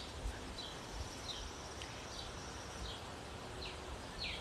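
A small bird chirping over and over, short falling notes about every two-thirds of a second, over faint outdoor background hiss.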